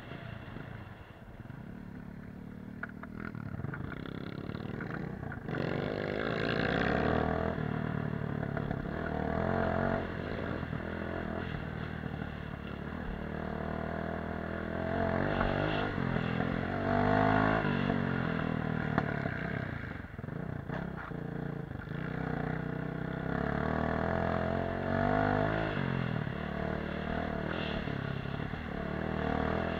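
Off-road motorcycle engine running under way, its revs rising and falling again and again, with some clatter from the bike.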